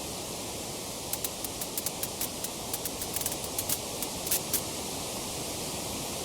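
Wood fire crackling in a fireplace: irregular sharp snaps and pops over a steady hiss.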